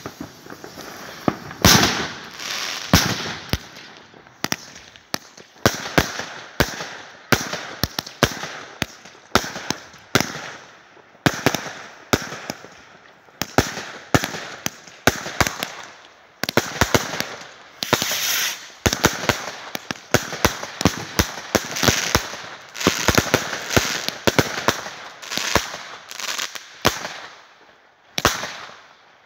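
Fireworks going off in a rapid series of sharp bangs, about one or two a second, with a rushing haze of noise between the reports.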